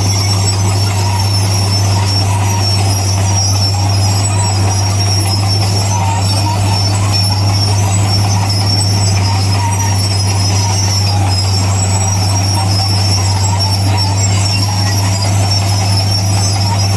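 Heavy earthmoving machinery running: a steady, loud diesel drone with a high, continuous metallic squealing over it, like crawler tracks and running gear squealing as they turn.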